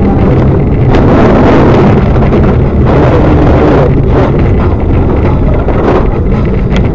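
Loud, steady wind buffeting on a vehicle camera's microphone, mixed with the vehicle's running noise, with a few short knocks.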